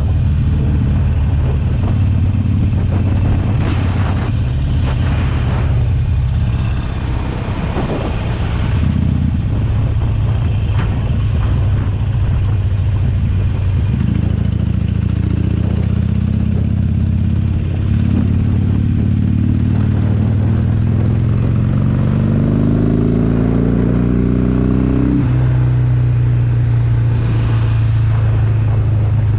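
Harley-Davidson Sportster Forty-Eight's air-cooled 1200 cc V-twin running through a Jekill & Hyde valve exhaust while being ridden. From about halfway the engine note climbs steadily through a gear, drops sharply at a gear change a few seconds before the end, then holds steady.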